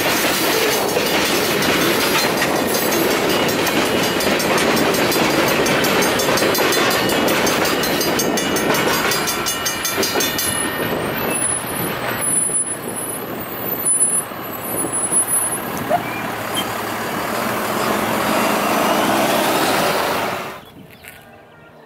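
A train passing over a railroad grade crossing, a dense, steady rolling noise of wheels on rail that cuts off sharply near the end.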